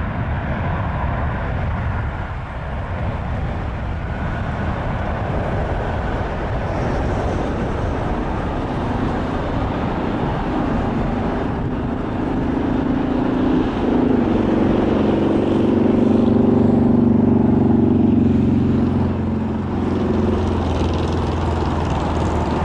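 Boeing 747-400's four Rolls-Royce RB211 turbofans, heard as a steady low rumble as the jet climbs away after takeoff. A humming tone swells in about halfway through, is loudest a little later and then fades.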